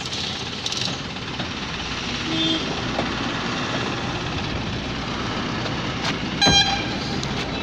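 Tractor engines running with a steady noise. About six and a half seconds in, a short, loud horn toot sounds.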